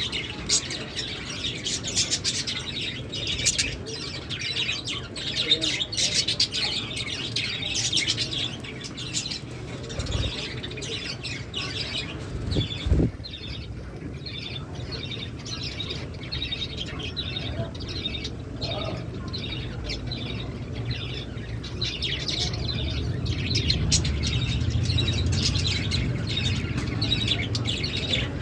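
A flock of lovebirds chirping with rapid, repeated high-pitched calls throughout. A couple of dull thumps come about ten and thirteen seconds in.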